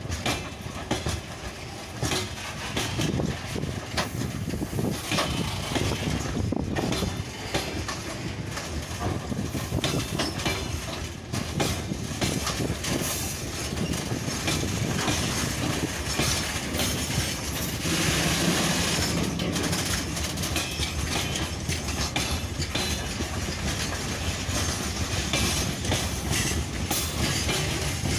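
Freight train wagons rolling past, their wheels clicking steadily over the rail joints.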